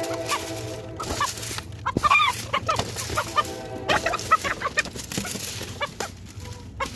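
Chickens clucking, with short repeated calls and two longer drawn-out calls, about a second in and again about three seconds in.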